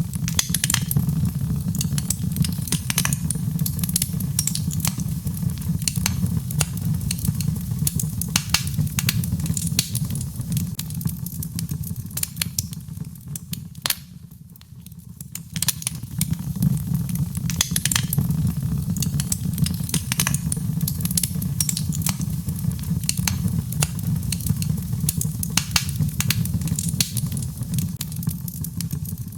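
Birchwood burning in a fireplace: a steady low rush of flame under frequent sharp crackles and pops from the logs. The fire goes briefly quieter, with fewer pops, about halfway through.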